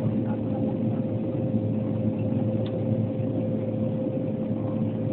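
Antonov An-140 turboprop engines and propellers droning steadily during the approach to landing, a constant hum with a steady pitch over engine and air noise.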